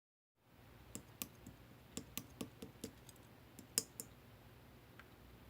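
Slime being handled, giving about a dozen sharp little clicks and pops in an irregular run over about three seconds, then one faint click near the end.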